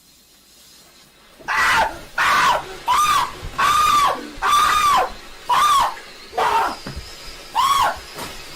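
A faint hiss, then about a second and a half in, a rapid run of about nine loud high-pitched shrieks, each rising and falling in pitch, with short gaps between them.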